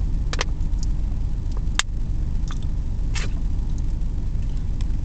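Long freight train of mostly empty cars rolling past: a steady low rumble with a few sharp clicks, the loudest about two seconds in.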